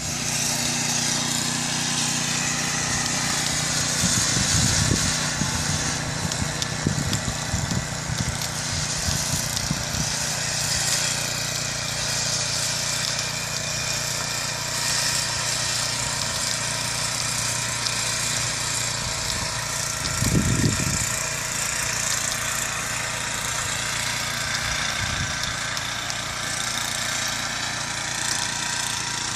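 An engine running steadily with a low hum under a steady hiss, and a brief louder rumble about twenty seconds in.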